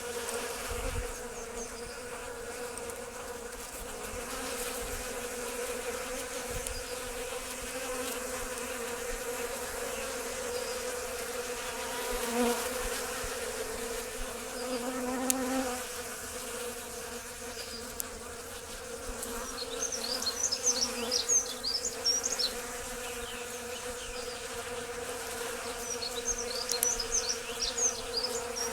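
Swarm of honeybees buzzing steadily as they forage at a bird feeder for seed dust. Two brief bursts of high twittering chirps stand out, about two-thirds through and near the end.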